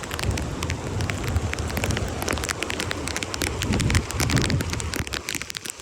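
Rain falling, with many sharp little drop taps on a nearby surface over a steady low rumble.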